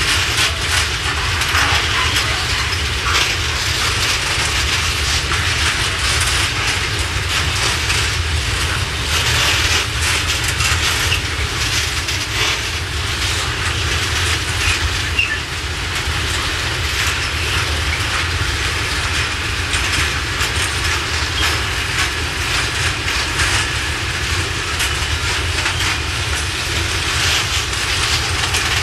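Heavily loaded open coal wagons rolling slowly past, their wheels clattering over rail joints in an irregular clickety-clack over a steady low rumble.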